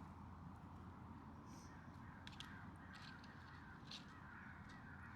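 Near silence, with faint animal calls and a few light clicks.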